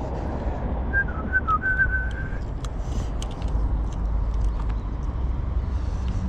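A brief whistled phrase, a few short notes and then a held one, about a second in, over a steady low outdoor rumble.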